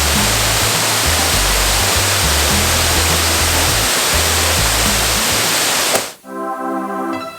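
Waterfall rushing loudly and steadily, with background music's low bass notes under it. About six seconds in the water sound cuts off abruptly and keyboard music takes over.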